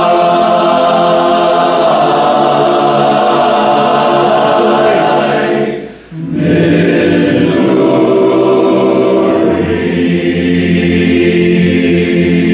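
Men's barbershop chorus singing four-part a cappella harmony in long held chords. The sound breaks off briefly for a breath about six seconds in, then comes back on another long sustained chord.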